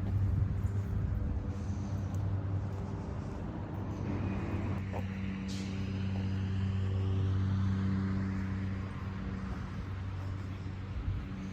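Street traffic: a vehicle engine running with a steady low hum, and another vehicle passing, swelling and fading about midway.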